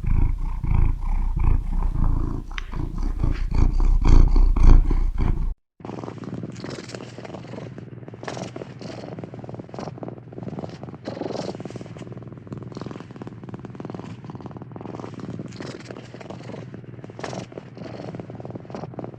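Cat purring close to the microphone, a loud low rumble in quick pulses; about five and a half seconds in it cuts to a quieter purring recording that swells and fades with each breath.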